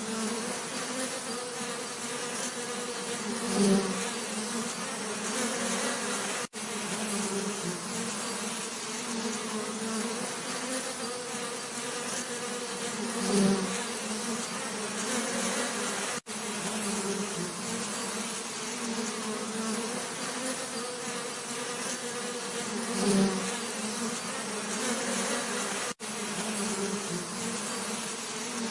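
Bees buzzing in a steady, many-voiced hum, with one bee swelling louder as it passes close about every ten seconds. The short recording repeats on a loop, with a brief cut in the sound at each seam, three times.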